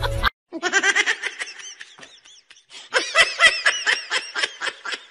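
High-pitched laughter in rapid short bursts, in two bouts, the second one louder.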